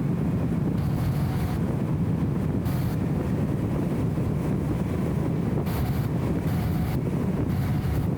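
BMW E34 M5 Touring driving at a steady pace: a low, even drone of engine and road noise, dulled by the camera's wind filter.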